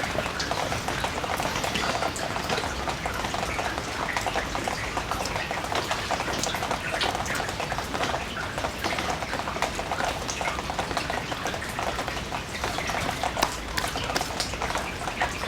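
Steady rain, with many close drops heard as a dense run of fine ticks.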